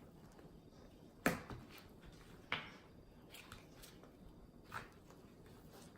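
Faint room noise with three short, soft knocks or clicks a second or two apart, from handling the slime-making bowl and utensils while the slime is mixed.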